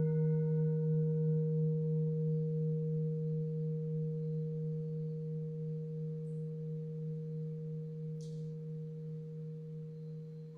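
Singing bowl ringing with a steady, low, pure tone. It is struck afresh at the start, so its higher overtones sound briefly and die away within a couple of seconds, then the tone slowly fades with a gentle wavering pulse.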